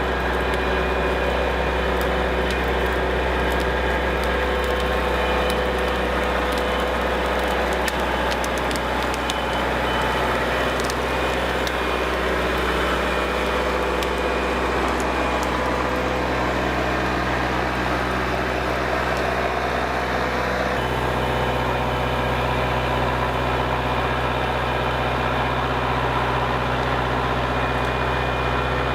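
Diesel engine of a Kubota L47 tractor running steadily, with light clanking early on and a change in engine note about 21 seconds in.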